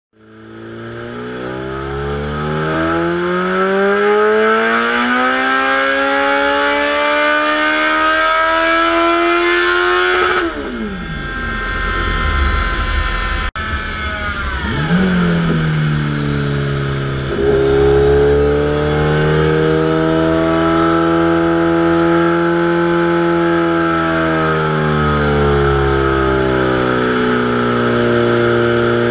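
2014 Kawasaki ZX-14R's inline-four engine running under load on a roller dyno: the revs climb steadily for about ten seconds, then fall away sharply as the throttle is shut. After a short break the engine is held under load again, its revs rising, holding and easing off slowly, over a low rumble from the rollers.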